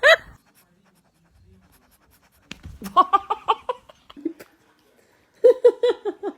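A person laughing in two bursts of quick, repeated pitched "ha" sounds, one about three seconds in and another near the end.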